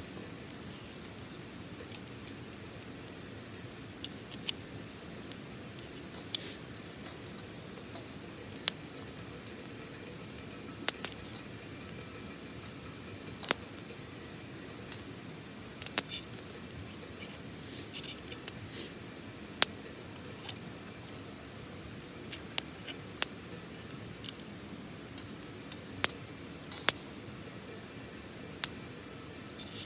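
Small wood fire crackling, with irregular sharp pops and snaps every second or two over a steady low hiss.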